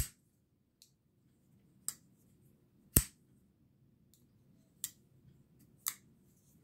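Folding pocket knives clicking as their blades are flicked open and snapped shut: five sharp metallic clicks, the loudest right at the start and about three seconds in, the others lighter.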